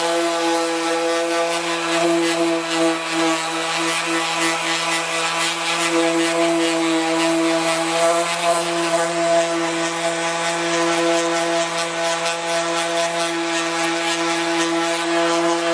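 Power sander running steadily against a car door panel, sanding the paint down toward bare metal. A constant motor hum sits under an even, gritty hiss of abrasive on the surface.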